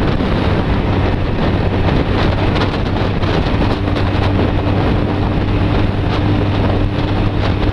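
Honda CB250 Nighthawk's parallel-twin engine running steadily at freeway speed, under heavy wind noise on the microphone.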